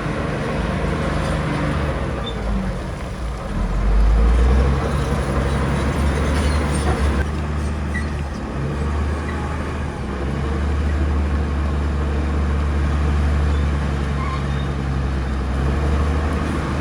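Heavy diesel earthmoving machinery running under load: a steady low engine drone that swells briefly about four seconds in and then holds steady.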